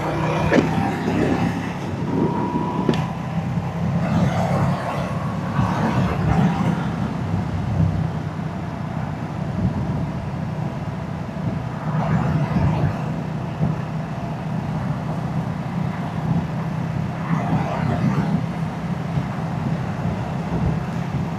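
Moto Guzzi V-twin motorcycle engine and exhaust running steadily, with no sudden revving.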